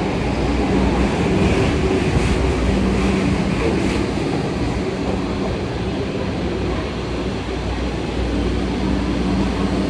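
Subway train pulling into an underground station platform: steady rolling rumble of the cars with a faint low motor hum.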